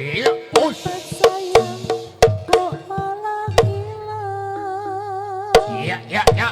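Live Javanese barongan music: sharp hand-drum strikes over a pitched melody ensemble, with one long wavering note held through the middle.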